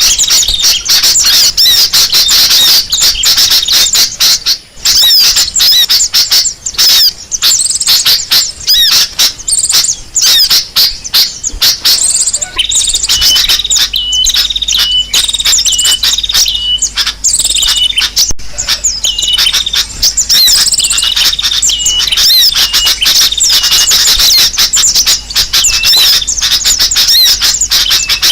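Dense, loud chatter of many small birds calling at once, rapid high-pitched chirps packed close together; about halfway through a short note repeated over and over joins in. A bird-lure recording of noisy, agitated birds, played to draw other birds in.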